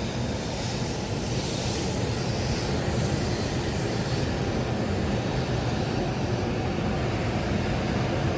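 Hokuriku Shinkansen train pulling in alongside the platform: a steady low rumble and rush of air, with a faint high whine over the first few seconds.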